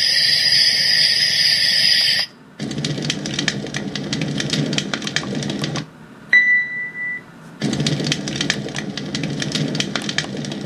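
RENPHO white noise machine playing sound settings: a steady high hiss for about two seconds, then after a brief break a crackling burning-fire sound over a low rumble. About six seconds in the fire sound stops for a single short beep, then the crackling resumes.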